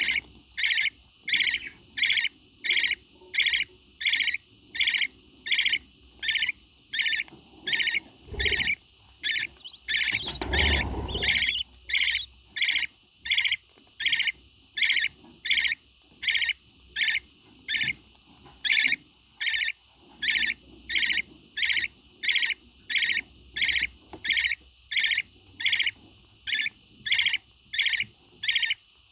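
A parrot repeating a short, wavering, high chirp at a very even pace, about one and a half calls a second. A dull thump comes about a third of the way in, and a short low rumble follows soon after.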